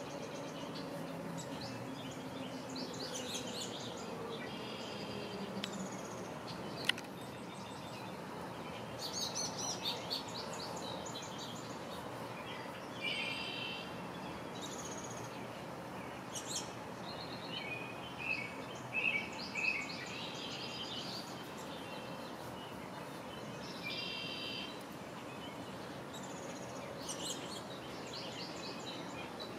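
Small birds calling again and again in short chirps and trills over a steady outdoor background hiss, with one sharp click about seven seconds in.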